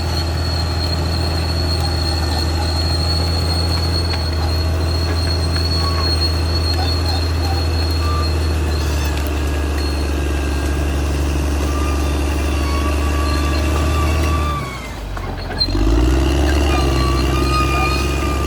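Caterpillar D6R XL crawler bulldozer's diesel engine running steadily under load, with high squealing from its steel tracks. About 15 seconds in the engine dips briefly, then picks back up.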